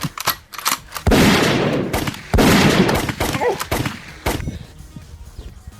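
Gunshot sound effects: a few sharp clicks, then two loud blasts about a second and a half apart, each trailing off over about a second.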